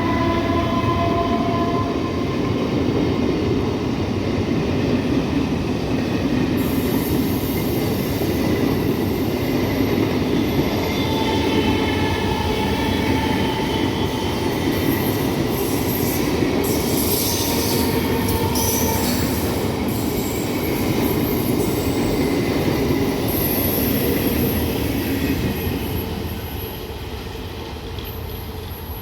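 A MEMU electric multiple-unit local train running past on the rails, with a steady rumble of wheels and high squeals now and then. The sound fades away near the end.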